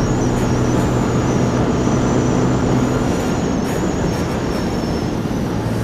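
Yamaha Sniper 155 motorcycle underway, its single-cylinder four-stroke engine running at a steady speed under a constant rush of road and wind noise. The low engine hum eases about three seconds in.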